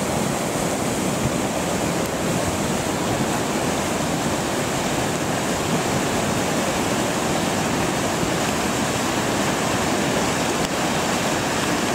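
Rain-triggered lahar flood on Merapi's Boyong River, a thick, cement-like slurry of water, sand and large boulders rushing past in a steady, unbroken rumble.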